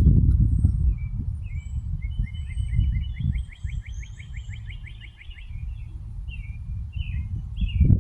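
Songbirds chirping around a bluebird nest box, with a fast, even trill from about two to five seconds in and short down-slurred chirps near the end. Underneath runs a louder low rumble with bumps, from movement or knocking picked up by the box camera's microphone.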